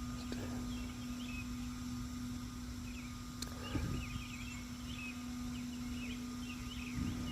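Outdoor ambience: birds chirping repeatedly in short high calls over a steady low hum.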